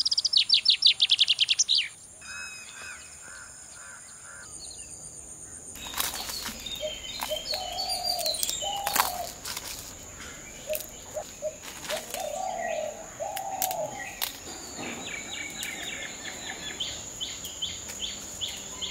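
Birds chirping and calling, opening with a loud rapid run of chirps in the first two seconds, then softer scattered calls, over a steady high-pitched whine.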